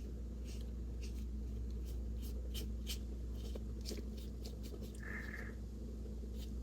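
Paintbrush loaded with acrylic paint stroking across gesso-primed mixed media paper: faint, short scratchy strokes over a steady low hum. A brief faint tone sounds about five seconds in.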